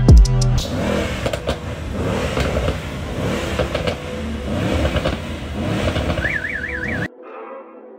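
Music with a heavy kick drum cuts off within the first second, giving way to the sound of modified cars at a meet: engines revving up and down again and again. Near the end a short, fast-warbling alarm tone sounds, and about seven seconds in it all cuts to quieter music.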